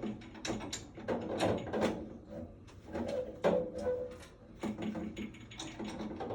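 Irregular mechanical clicking and knocking from work on a furnace being installed.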